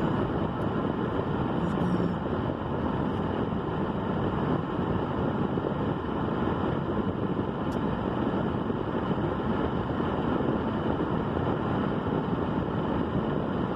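Steady low rumbling noise with no clear pitch, running unbroken at an even level.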